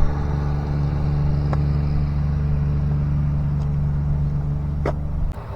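Engine of a small utility buggy running steadily at idle, a constant low hum that cuts off suddenly near the end.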